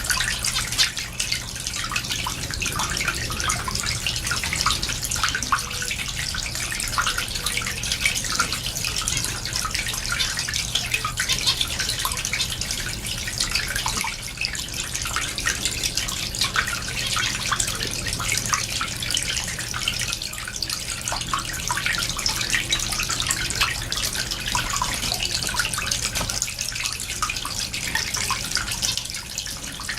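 Continuous chatter of a mixed group of small cage finches (zebra finches, society finches, Gouldian finches): a dense, unbroken stream of short, high chirps and ticks over a steady low hum.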